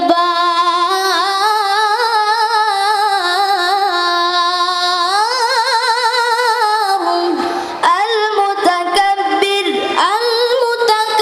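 A child qari's voice reciting the Quran in melodic tilawah style: one long held, ornamented note with wavering vibrato and slow rises in pitch, then shorter broken phrases in the second half.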